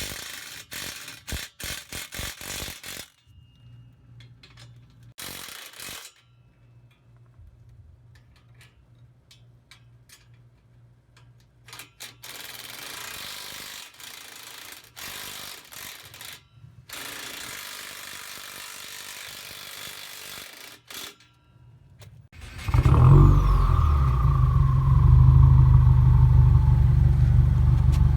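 A ratchet wrench clicks in quick strokes as the last exhaust bolt is tightened. About 23 seconds in, the 2016 Subaru WRX's turbocharged flat-four starts and runs with a loud, deep rumble through the muffler-delete exhaust.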